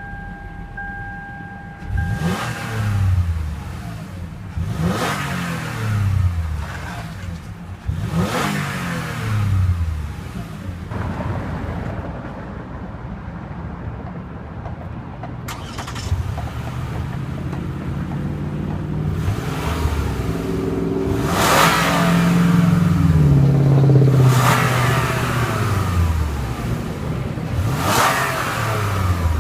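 2013 Lexus RX 350's 3.5-litre V6 revved in short blips while parked, the pitch rising and falling back each time, with idle between the blips. There are several blips, spaced a few seconds apart.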